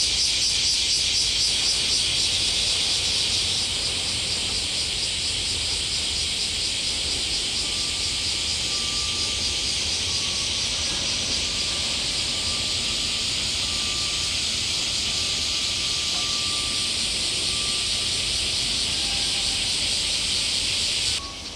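Cicadas droning in a loud, steady chorus, pulsing rapidly for the first few seconds, with a faint low rumble underneath. The chorus cuts off suddenly near the end.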